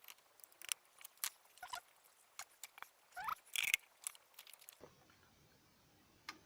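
Irregular clicks, taps and scrapes of a small plastic dehumidifier being handled and worked on, with one short rising squeak in the middle. About three-quarters of the way in, this cuts off abruptly to a faint steady hum with a single click near the end.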